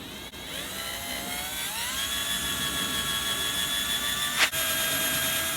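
Small electric drill with a steel nail chucked as a bit, whining as it spins up over about two seconds and then running at a steady pitch while smoothing a hole through a die-cast toy car's body. A sharp click about four and a half seconds in, and the drill stops suddenly at the end.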